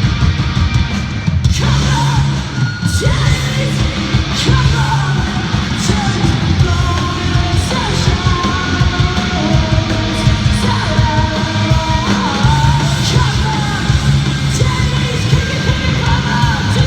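Live punk rock band playing loud and dense, with distorted guitars and drums, heard from the crowd in an arena. A yelled lead vocal comes in about a second and a half in and carries on over the band.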